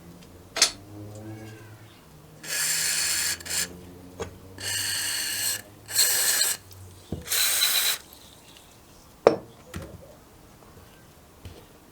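Four short bursts of pressurised hissing, each about a second long, like a spray nozzle or air nozzle being triggered while a carburetor is cleaned. Sharp clicks and knocks of handled parts and tools come in between.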